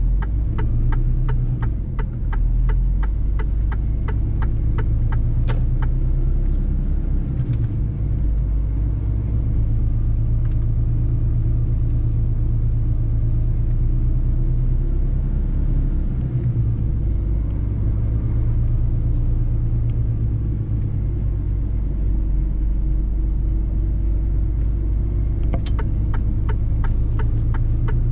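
Mercedes-Benz truck's diesel engine running steadily while driving, a low rumble. A regular ticking sounds through the first several seconds and again near the end.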